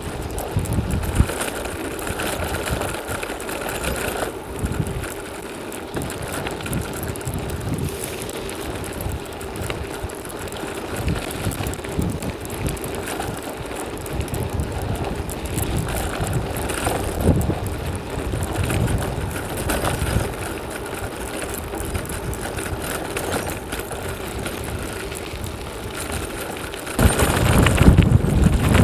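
Bicycle ride on a packed dirt road: steady rolling and drivetrain noise, with strong wind gusting on the microphone in uneven low rumbles. A heavier gust comes in near the end.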